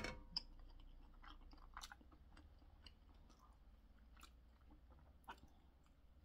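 Faint chewing of a mouthful of chewy, spicy boneless chicken feet, with scattered small clicks. The sharpest click comes right at the start.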